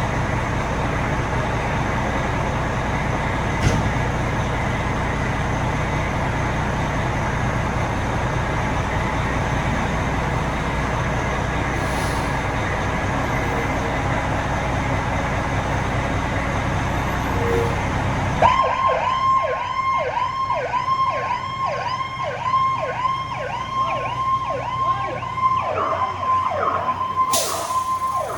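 A steady low vehicle engine rumble, then about two-thirds of the way in an emergency vehicle's electronic siren starts up in a fast yelp, about two sweeps a second, over a steady held tone. A short loud hiss-like burst comes near the end.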